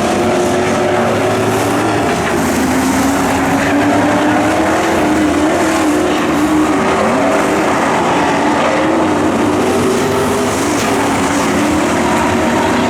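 Pro race trucks' engines running hard on a dirt oval: a steady, loud blend of several engines whose pitches rise and fall as the trucks lap.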